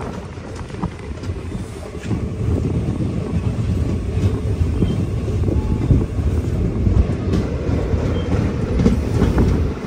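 Passenger train's wheels rumbling and clattering over the rails as the train rolls along a station platform, heard through an open carriage door. The rumble grows louder about two seconds in.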